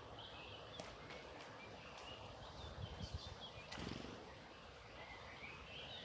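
Faint birdsong: thin, high chirping and twittering phrases throughout, with a few sharp clicks and a low background rumble.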